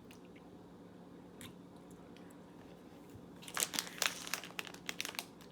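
About three seconds of low hum with a few faint clicks, then a plastic candy wrapper crinkling and crackling in the hands.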